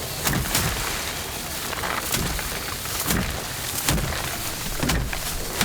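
Hand rice harvesting work: repeated thuds with dry rustling of rice stalks, coming unevenly about once a second.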